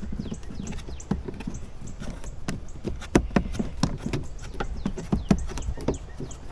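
Hands and a tool working plastic trim fasteners on a Jeep: a quick, irregular string of sharp clicks and light knocks, several a second.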